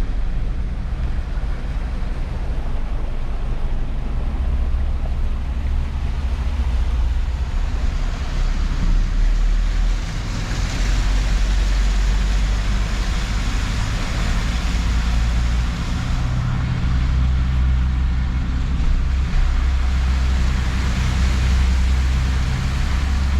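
A vehicle on the move: a steady deep rumble under a continuous rushing noise that grows brighter partway through.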